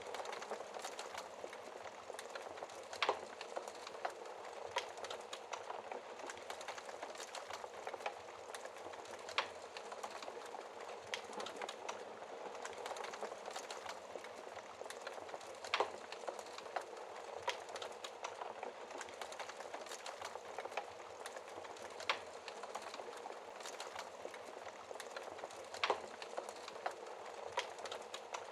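Log fire crackling, with a handful of sharp, louder pops every several seconds, over a steady hiss of rain.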